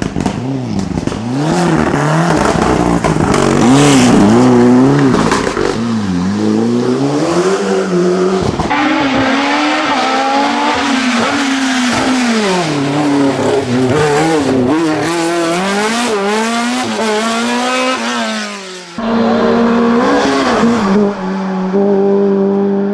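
Race car engines revving hard and dropping back again and again as the cars are driven through corners, with some tyre squeal. The sound changes abruptly about nine seconds in and again near the end, as one car gives way to another.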